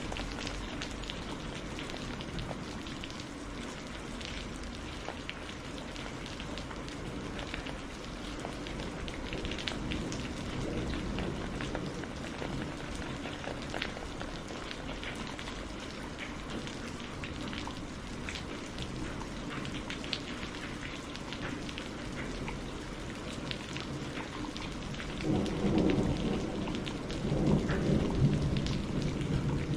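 Steady rain falling and pattering, with a roll of thunder rumbling in about 25 seconds in and running on to the end.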